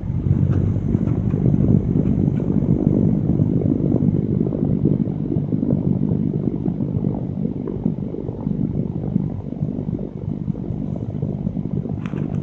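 Electric fan's airflow blowing onto the microphone: loud, low, gusty wind noise that wavers constantly, with a single sharp click near the end.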